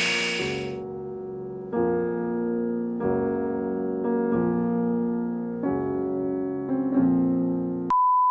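Piano music: a run of held chords, changing about once a second. Near the end a steady single-pitch beep cuts in.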